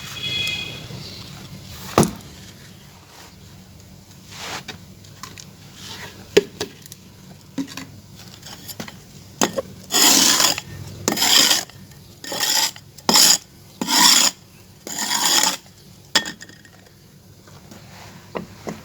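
Scraping and knocking on a clay pot: scattered knocks and clicks, then a run of about six rough scraping strokes in a row past the middle.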